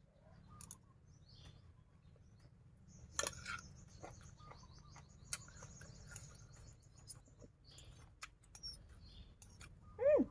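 Quiet eating sounds: scattered clicks of chewing and utensils. Birds twitter faintly in the background from about three seconds in. A short, loud voiced sound rises then falls in pitch near the end.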